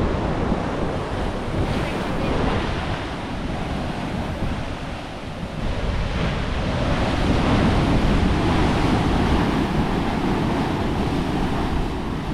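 Ocean surf breaking against rocks below a cliff, a steady wash of waves that swells louder about six seconds in, with wind buffeting the microphone.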